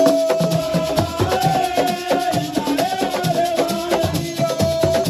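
Live assiko music: a fast, steady drum rhythm with shakers, and a long held note sustained above it.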